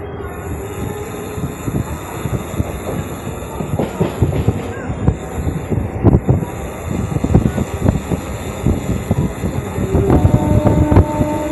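Electric local train running at speed, heard from its open doorway: a rumble with wheels clattering over the rail joints, getting louder as it goes. About ten seconds in, a steady pitched tone joins in.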